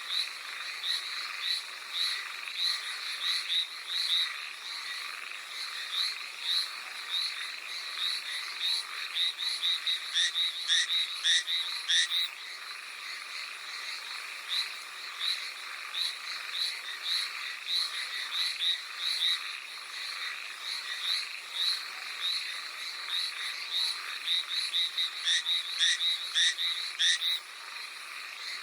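Hallowell's tree frogs calling: a continuous run of short, high croaks, several a second, over a steady hiss. The calling grows louder and faster in two spells, about ten seconds in and again near the end.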